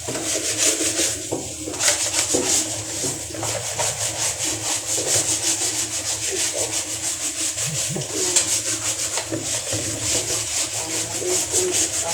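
Fast, rhythmic scrubbing strokes, about five a second, as a vacuum cleaner part is scrubbed clean while being washed.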